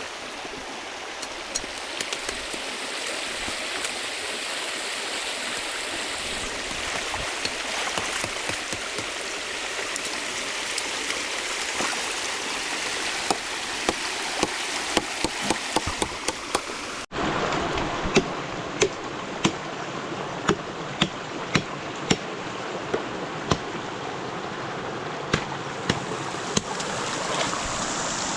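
A river flowing steadily, with many sharp clicks and knocks over it, several a second at times in the second half. The sound changes abruptly about two-thirds of the way in.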